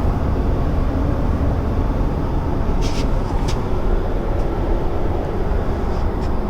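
Steady in-flight cabin drone of a Boeing 777-300ER at cruise, a constant low rushing noise, with a couple of short clicks about three seconds in.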